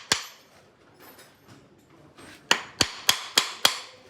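A farrier's hammer tapping the nail heads on a Shire horse's shoe to tighten the nails. There is one sharp, ringing blow just after the start, then a run of five quick blows, about four a second.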